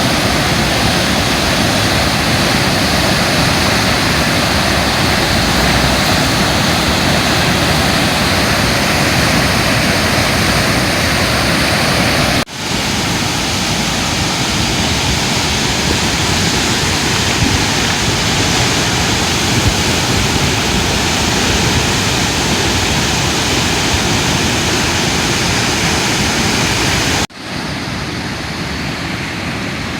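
Floodwater of the swollen Katsura River rushing loudly and steadily after heavy rain, briefly cut off twice, about twelve seconds in and near the end.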